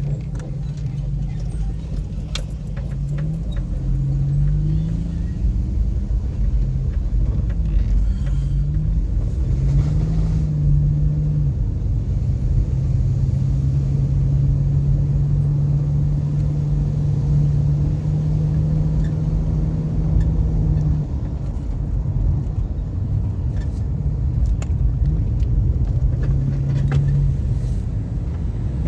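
Car on the move: a steady low engine drone and road rumble. The engine note steps up and down in pitch several times in the first ten seconds, then holds level for most of the rest.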